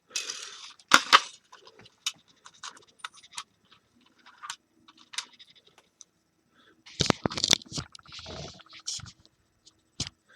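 Screwdriver working small screws out of a space heater's circuit board: scratchy scraping with scattered clicks and knocks of small plastic and metal parts being handled, and a burst of sharper clicks about seven seconds in.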